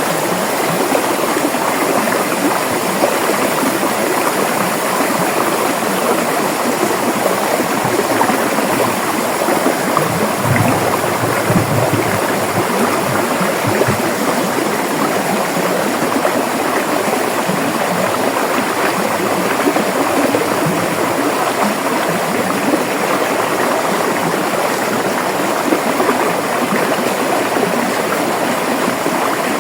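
River water flowing steadily over rocks, a continuous rushing and gurgling of a stream with no pauses.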